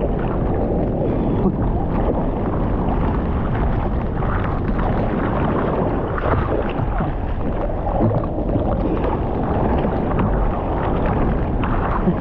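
Steady, loud rush of water with wind buffeting the microphone, with no clear tones or distinct knocks.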